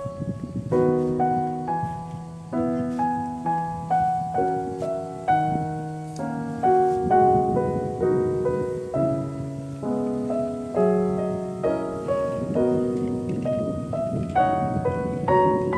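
Background piano music: a gentle keyboard piece of chords and melody notes, each struck and fading.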